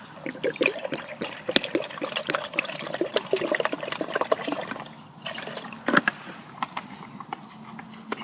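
Water being poured and glugging for about five seconds, then a quieter stretch with a couple of single knocks.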